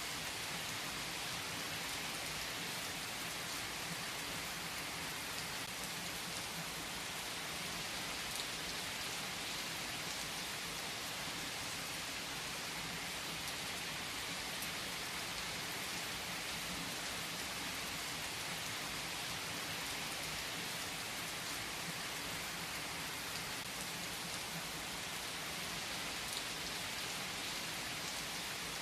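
Steady rain, an even hiss with the odd single drop standing out.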